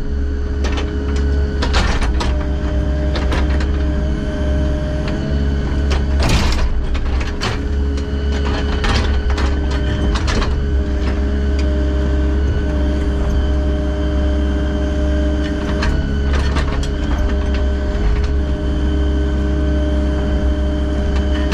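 Heavy construction machine's engine running steadily under load, with a deep low hum, interrupted by repeated clanks and knocks of metal working.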